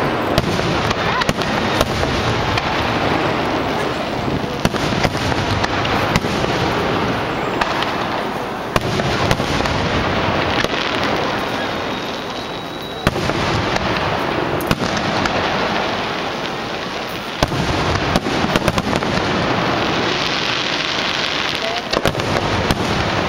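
Fireworks display: aerial shells bursting in quick succession, a continuous barrage of booms and crackling with sharp pops throughout, and fresh loud volleys about 13 and 17 seconds in.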